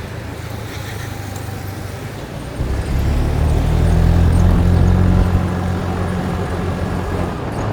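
Motor vehicle engine running on the road. About two and a half seconds in, a louder, deeper engine sound swells up, stays strongest for a couple of seconds, then eases off.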